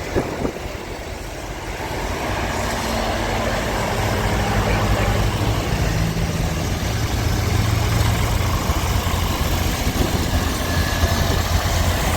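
Tractor engines running at low revs, a steady low hum that grows louder over the first few seconds and then holds.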